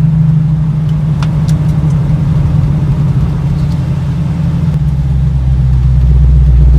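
1965 Ford Mustang's engine running as the car is driven, a steady low drone that drops to a deeper, louder note about five seconds in.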